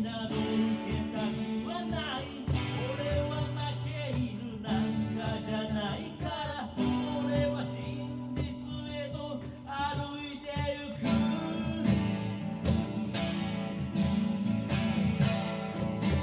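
A man singing to a Yamaha FS-TA TransAcoustic acoustic guitar, with cajon beats keeping a steady rhythm underneath.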